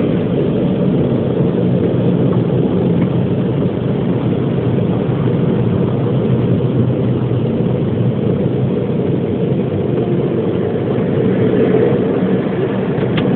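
Automatic car wash air-dryer blowers running, a loud, steady rushing hum heard from inside the car.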